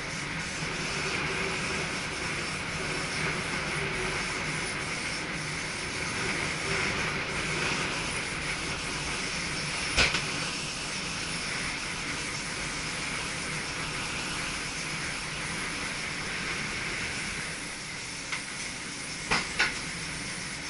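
Two coupled two-car SGM Sprinter electric multiple units running along the track, heard in the driver's cab as a steady rushing hiss. A sharp knock comes about halfway through, and two quick knocks follow near the end.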